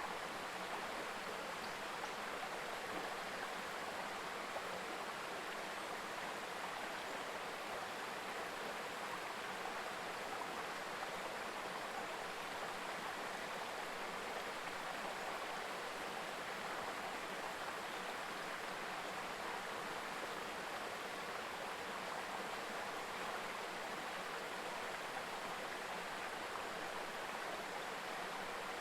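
Mountain river babbling steadily over rocks, an even rushing of water.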